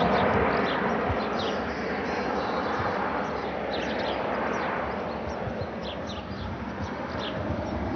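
Airbus H135 helicopter's rotor and turbine noise slowly fading as it moves away. Short high bird chirps repeat over it.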